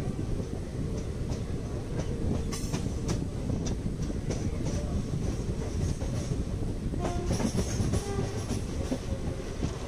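Passenger train rolling along the track, heard from the side of the coach: a steady low rumble of the running gear, with the wheels clicking and clattering over the rails, sharply about two and a half seconds in and in a cluster near the end.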